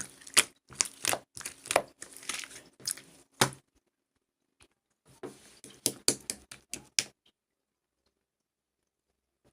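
Irregular crisp crackling and crunching noises in two runs, stopping about seven seconds in.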